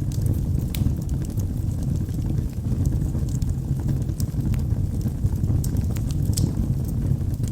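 Log fire burning in a fireplace: a steady low rumble of the flames with scattered sharp crackles and pops of the burning wood, several each second.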